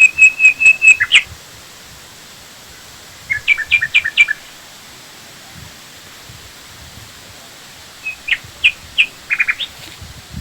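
A songbird singing three short phrases of quick, repeated high notes: one at the start, one about three seconds in, and one about eight seconds in.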